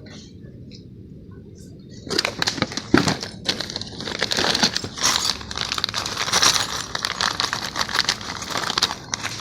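Packaging crinkling and rustling continuously as a boxed mini bench grinder is unpacked, starting about two seconds in.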